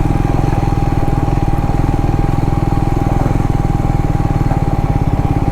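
Triumph Scrambler 400X's single-cylinder engine running at steady revs, a fast, even pulsing, with a thin steady whine above it.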